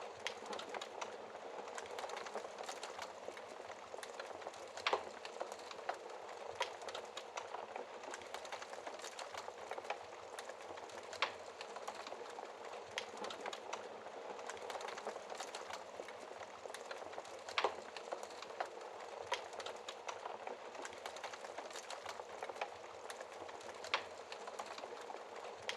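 Wood fire burning in a fireplace: a steady low crackle and hiss with sharp, irregular pops from the logs, a few of them louder, about every six seconds.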